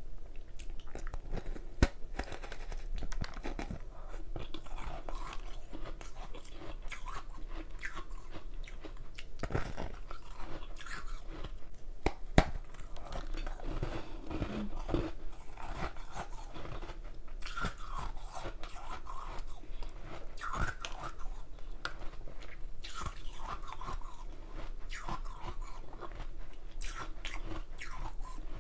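A person biting and chewing hard ice, a continuous irregular crunching and crackling. Two sharper cracks stand out, about two seconds in and a little past the middle.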